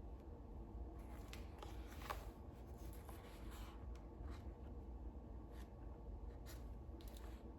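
Paper rustling as book pages are turned and handled: a string of soft, short rustles and brushes, the fullest about two to three and a half seconds in, over a faint steady low hum.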